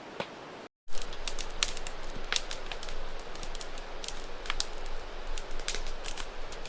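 Steady river rush, cut off a moment in, then a wood campfire crackling with many irregular sharp pops and snaps.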